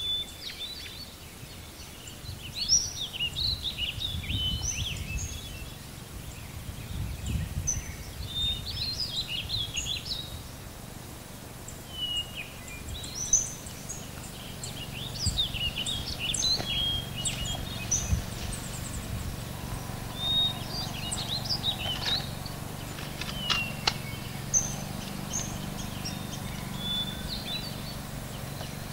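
Small songbirds chirping and twittering in short, repeated phrases over a low rumble, with a few brief thumps.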